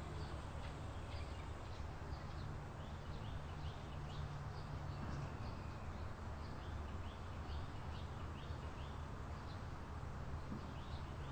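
Small birds chirping over and over, short high calls that drop in pitch, against a steady low rumble.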